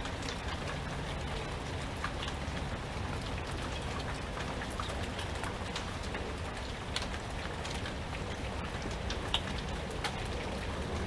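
Steady rain falling, with many scattered drops ticking sharply on nearby surfaces over an even hiss, and a low steady rumble underneath.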